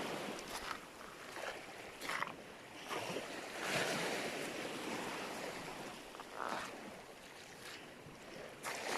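Small sea waves washing and splashing at the shore, swelling and fading, with wind on the microphone.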